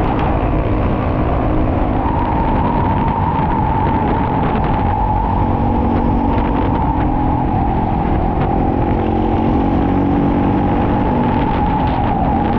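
Single-cylinder four-stroke dual-sport motorcycle engine running at a steady cruise, heard from on the bike. A whine joins it about two seconds in and drifts slightly lower.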